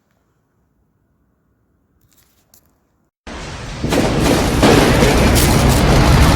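Near silence, then about three seconds in a consumer firework suddenly goes off, growing louder a moment later into continuous dense crackling and banging.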